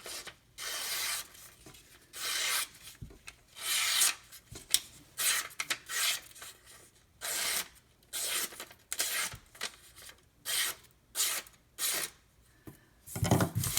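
A knife blade drawn in repeated, separate strokes across a sharpening surface, each stroke a short rasping hiss.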